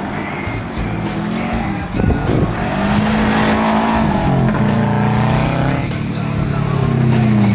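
Turbocharged 2.0-litre flat-four of a Subaru Impreza WRX rally car under hard acceleration, the revs climbing and dropping several times through gear changes. A sharp hit sounds about two seconds in.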